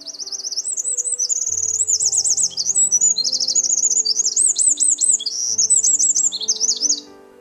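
A songbird singing one long, fast song of rapid trills and slurred high whistles, stopping shortly before the end, over soft background music with sustained notes.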